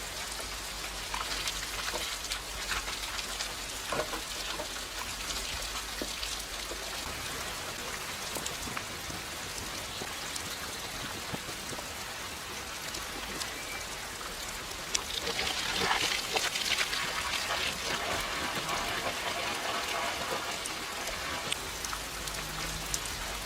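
Steady rain falling, with individual drops striking surfaces; it grows louder about two-thirds of the way through.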